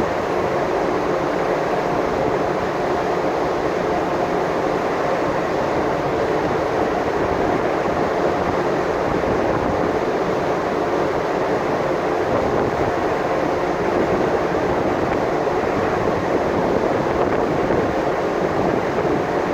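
Steady drone of a ship's engine and machinery, running evenly with no change.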